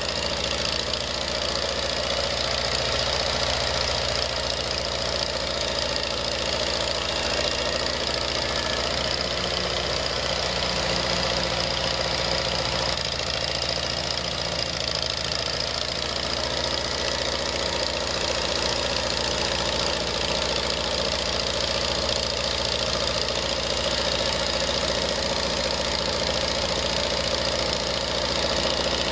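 Farmall 230 tractor engine running steadily at idle, its note shifting slightly about halfway through.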